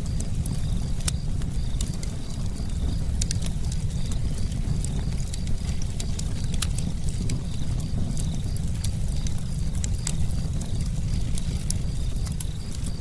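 Campfire burning, with frequent sharp, irregular crackles and pops over a steady low rumble.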